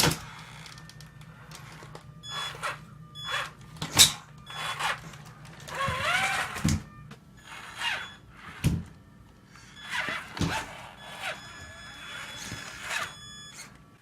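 Electric RC truck crawling over obstacles: its motor whines up and down in short bursts of throttle, amid irregular knocks and clunks of the tyres and chassis against hard surfaces.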